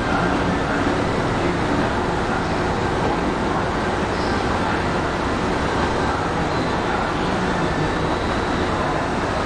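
Steady running noise of electric multiple-unit trains moving slowly through a station: one train pulling away while another rolls in.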